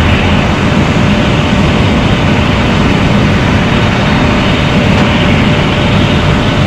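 Loud, steady mechanical drone of a parked Boeing 737 with its systems running, with faint steady hum tones over it.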